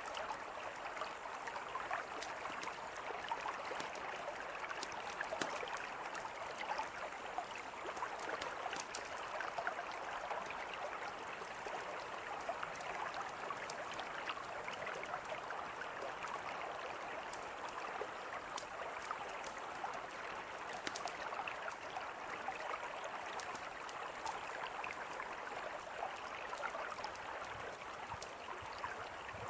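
Mountain river flowing steadily, with scattered small crackles and pops of a campfire over it.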